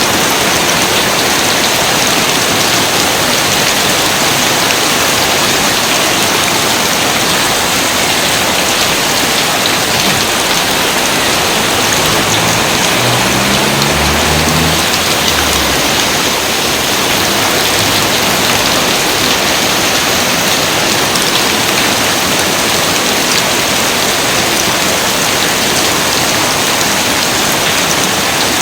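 Steady, dense rain, an even hiss of countless drops. A faint low rumble comes and goes about halfway through.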